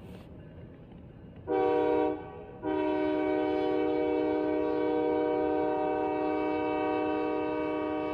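Train air horn sounding a chord: a short blast about a second and a half in, then a long, steady held blast, over a low rumble of the passing train.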